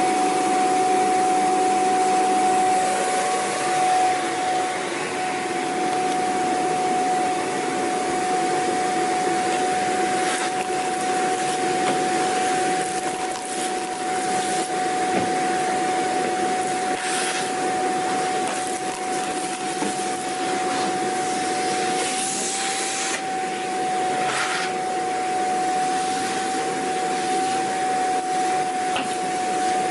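Vacuum cleaner running steadily: an even rushing noise with a constant high motor whine. A few short surges of hiss break through, the longest about two-thirds of the way in.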